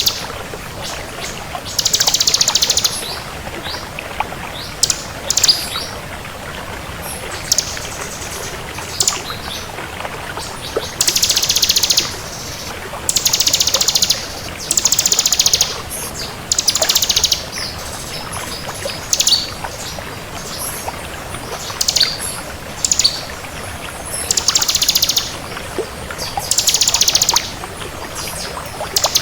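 Ciblek kristal, a prinia, singing: a series of fast, high, buzzy trills, each under a second long, repeated every one to two seconds with a few short chirps between, over a steady hiss.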